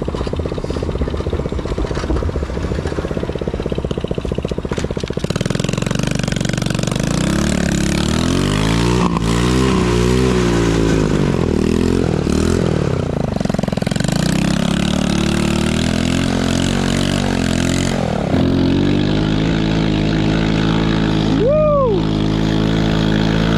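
Small 110cc single-cylinder four-stroke ATV engine revving up and down repeatedly under throttle, then settling to a steady run for the last few seconds.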